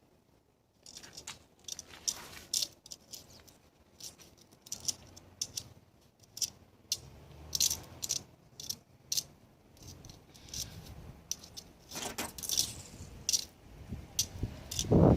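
Irregular light clinking and rattling, a run of short sharp clicks that grows denser and louder near the end.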